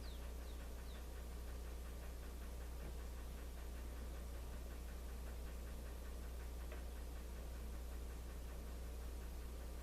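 A songbird singing a series of short, falling whistled notes, about three a second, that stops about a second in. Faint, evenly spaced ticking and a steady low hum run underneath.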